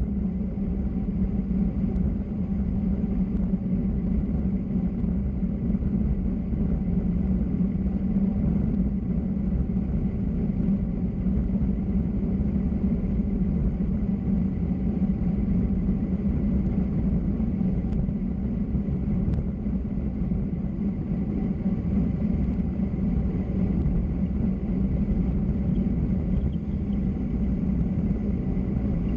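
Steady low rumble of wind and road noise at descending speed, unchanging throughout.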